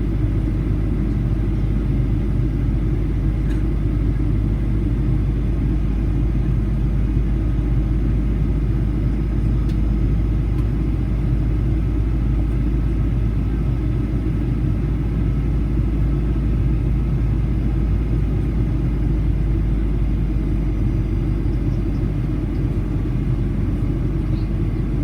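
Steady cabin rumble of a Boeing 737-800, its CFM56-7B engines and the airflow heard from inside the cabin: a deep, even drone with a faint high whine over it.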